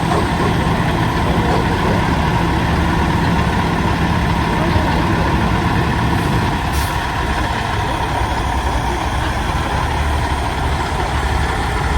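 Heavy diesel big-rig truck engines running steadily. Their low note drops partway through, and there is a brief air hiss about seven seconds in.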